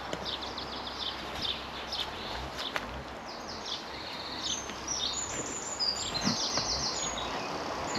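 Small songbirds singing, with repeated high chirps and a rapid trill in the second half, over a steady outdoor hiss with a few faint clicks.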